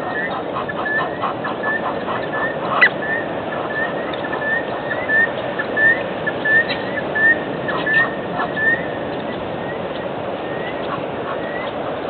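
Birds calling: a short rising chirp repeated about twice a second over a steady hiss, with a fast clicking rattle in the first couple of seconds and a few louder calls between about five and nine seconds in.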